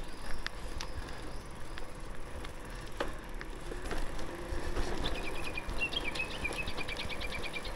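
A bird calling a fast, even run of short high chirps, about seven a second, starting about five seconds in. Underneath is the low steady rumble of a bicycle rolling along a rough paved lane, with a few light clicks.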